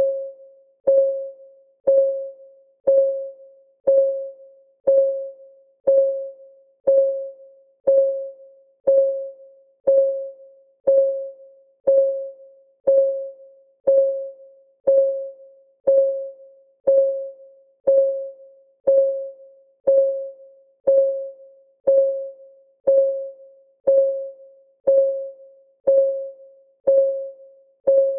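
Countdown timer's clock ticking sound: a short, pitched tick once a second, each dying away quickly, in an even, unbroken rhythm.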